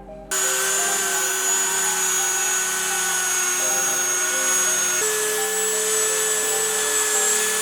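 Small high-speed rotary tool starting up and running steadily with a whine. The whine sags slightly, then steps up in pitch about five seconds in.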